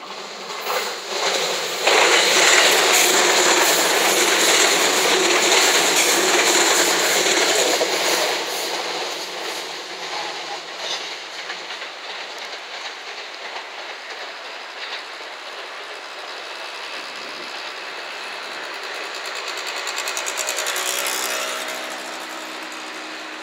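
JR West 227 series electric multiple unit, five cars, running past close by. It starts with a few wheel clicks, then a loud steady rumble of wheels on rail for several seconds that fades gradually as the train moves away, with a brief swell again near the end.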